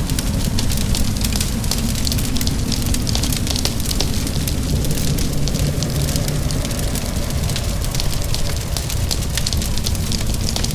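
Wood fire crackling in a fireplace, dense irregular small pops over a steady low rumble, with rain mixed in.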